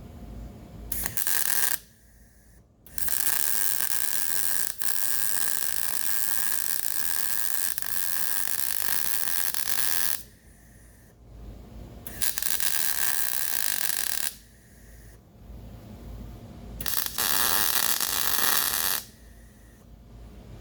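Electric arc welding in four separate runs of steady crackling hiss, each starting and stopping sharply with a weaker steady tone inside: a short one about a second in, a long one of about seven seconds, then two of about two seconds each. These are the beads fixing the pillow block bearing brackets to the frame.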